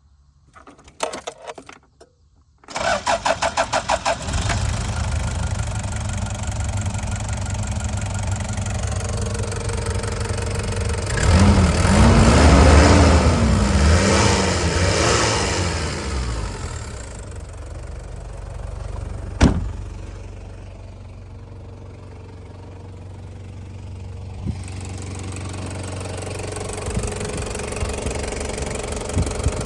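Toyota HiAce turbo-diesel engine cranked by the starter for about a second and a half, catching and settling into a steady idle. About eleven seconds in it is revved once, the pitch rising and falling back, then it idles on. There is a sharp click a few seconds after the rev.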